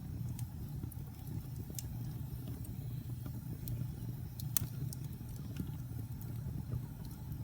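Wood fire burning in a fireplace: a steady low rumble of flames with scattered sharp crackles and pops, the loudest pop a little past halfway.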